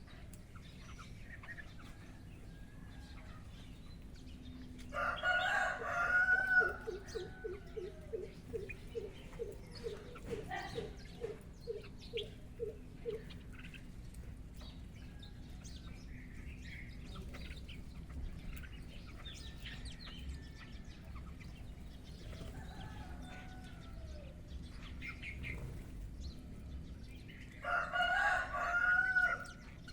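A rooster crows twice, about 5 seconds in and again near the end, each crow lasting about two seconds. Between the crows, a chicken gives a run of about three clucks a second for several seconds, and small birds chirp faintly throughout.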